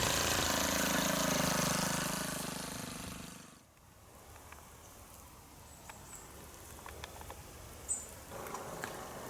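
Powered hedge trimmer running steadily while cutting back Himalayan balsam, then winding down and stopping about three and a half seconds in. Quiet outdoor ambience follows, with scattered small clicks and a brief high chirp.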